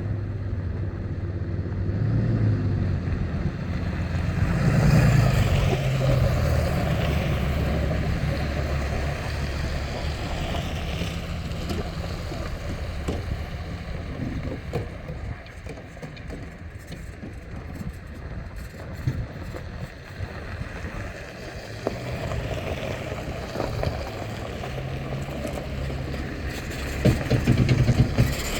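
Low, steady engine rumble of trucks and an RV, swelling louder about five seconds in and again near the end, with a few short knocks near the end.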